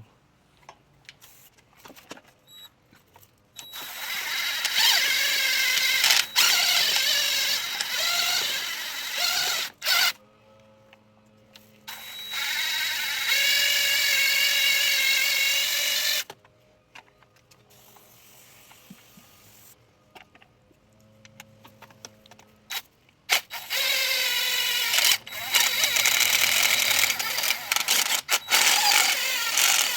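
Power drill spinning a nylon scrub brush against a motorcycle chain sprocket, run in three bursts of several seconds each with short pauses between.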